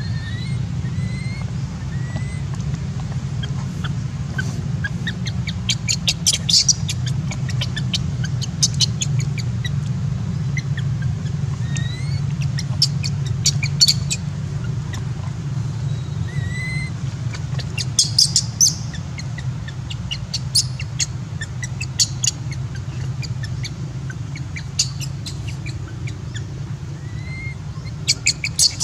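Birds chirping: short rising chirps and, every few seconds, bursts of rapid high chattering, over a steady low rumble.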